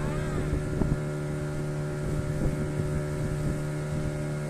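Boat motor running steadily with an even hum, with some wind on the microphone.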